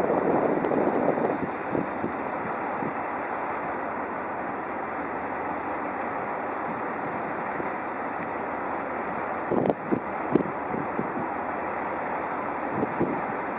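Steady rushing noise of an electric freight train, a BB 27000 locomotive and its wagons, rolling slowly through station trackwork, mixed with wind on the microphone. A few sharp knocks come about ten seconds in.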